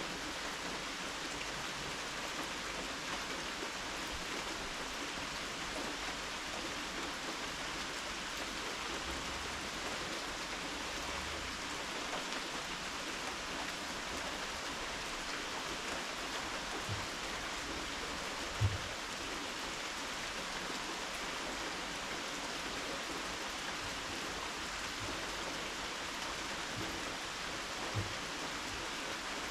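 Steady rain falling, an even hiss of drops on surfaces. A few brief, dull low thumps sound through it, the loudest about two-thirds of the way in.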